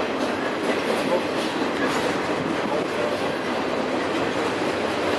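Intermodal freight train's well cars and trailer-carrying flatcars rolling past: a steady rumble and rattle of steel wheels on rail, with faint clicks from the wheels.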